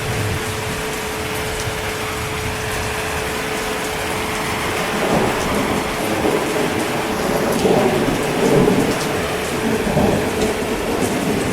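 Steady heavy rain, with thunder rolling in low rumbling swells through the second half.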